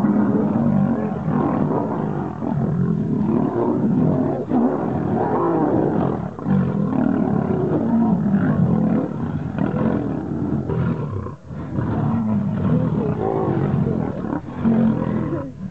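Lionesses growling continuously as they tussle at a bush, with a brief break about eleven seconds in.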